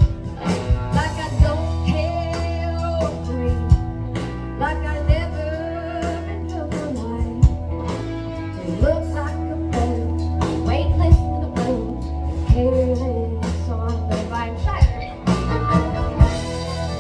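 Live band performance of a song: a woman singing over electric guitar, heavy bass and a drum beat, recorded from the audience.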